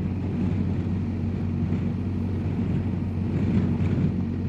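BMW R1250GS Adventure's boxer-twin engine running at a steady cruising speed, heard as a constant low drone mixed with wind and road noise.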